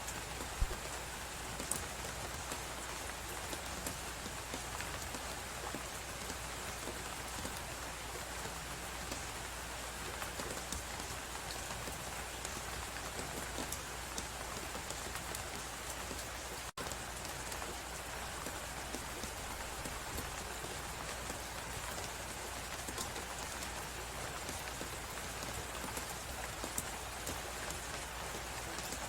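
Steady blizzard wind hiss with a wood fire crackling in many small, irregular pops. About halfway through the sound cuts out for a split second.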